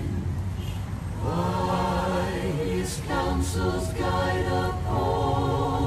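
Choir singing together in held notes, in phrases of a second or two.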